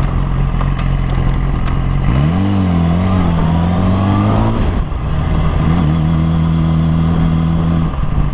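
Yamaha R6 inline-four engine idling steadily, with the revs rising about two seconds in and dropping back near five seconds, then settling to a steady idle.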